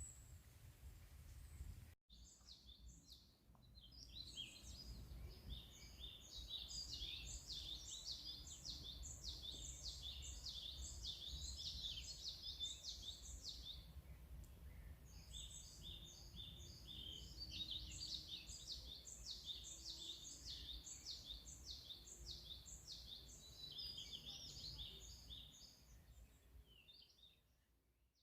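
Birdsong: long runs of quick, repeated high chirping notes, breaking off briefly halfway through, over a faint low rumble.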